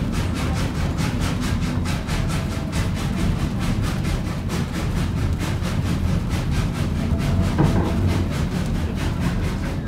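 1926 Baldwin 2-8-0 narrow-gauge steam locomotive chuffing steadily at about four exhaust beats a second over the low rumble of the train, working a heavy train up a 4% grade.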